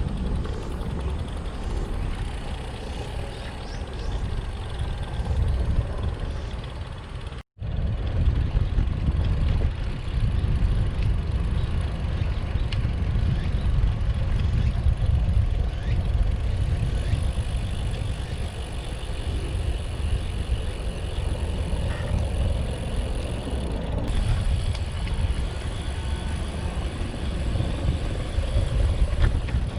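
Steady low wind rumble and road noise while riding a Brompton folding bicycle, broken by a brief cut about seven seconds in.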